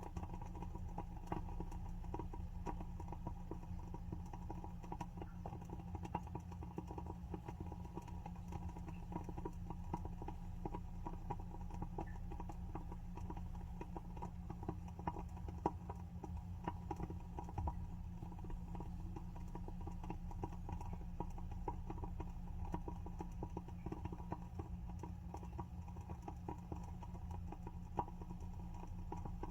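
WoodWick candle's wooden wick crackling as it burns: a dense run of small irregular pops, with a few louder pops about halfway through and near the end, over a steady low hum.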